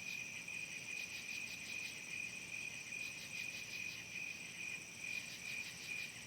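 Evening crickets and other insects chirping together: a steady high trill with fainter, higher steady tones above it and rapid pulsing chirps over the top.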